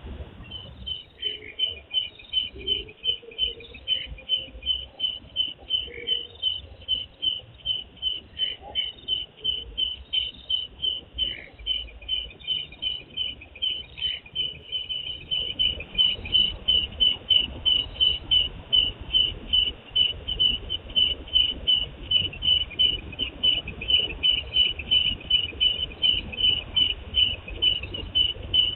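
A cricket chirping steadily, about two short, high chirps a second, getting louder about halfway through.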